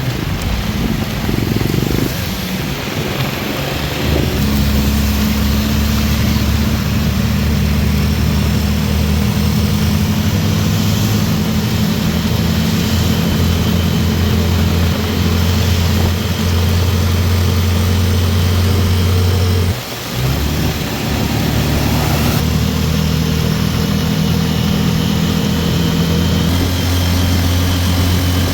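A motor engine running steadily at a constant pitch, with a brief dip about two-thirds of the way through, over the even hiss of heavy rain.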